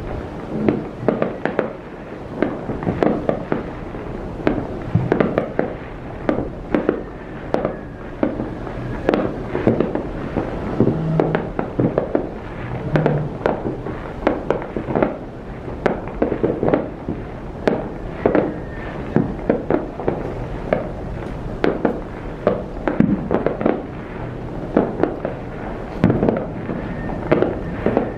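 Fireworks display: a steady barrage of bursting shells and crackling, many bangs a second over a continuous low rumble.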